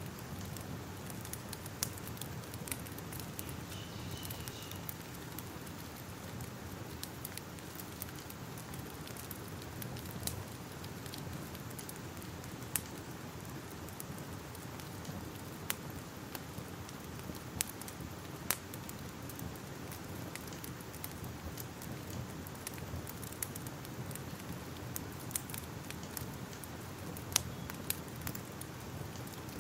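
Fire crackling: a steady hiss with scattered sharp pops and snaps.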